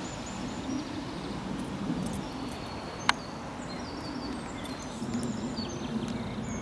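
Small birds chirping in short high calls over steady outdoor background noise, with one sharp click about three seconds in.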